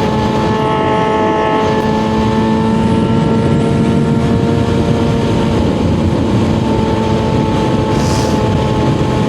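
Suzuki GSX-R750 inline-four engine running at a steady speed while the motorcycle cruises, under heavy wind and road rush on a helmet-mounted microphone.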